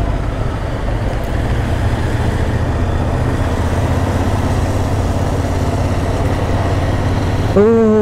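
Royal Enfield Interceptor 650's parallel-twin engine running steadily while riding through city traffic, with road noise around it.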